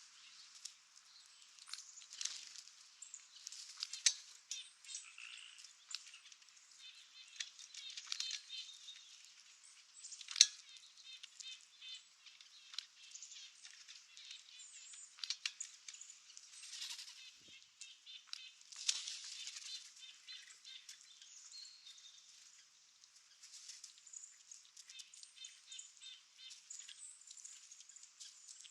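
Small animal activity in woodland: scattered sharp clicks and rustles, with short runs of rapid, repeated chirps.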